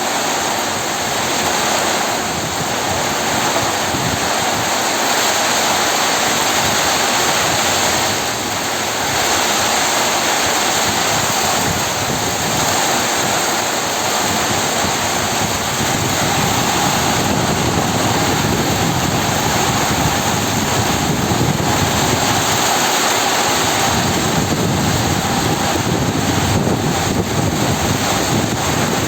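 Heavy rain pouring down in strong wind: a loud, steady rushing hiss that keeps up without a break.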